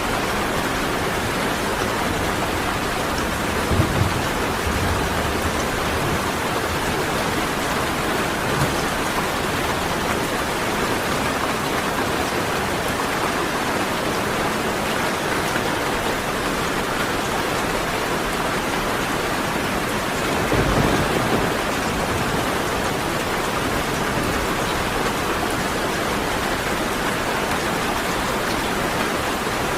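Steady rain falling without a break, with two brief low rumbles of thunder, one a few seconds in and one about two-thirds of the way through.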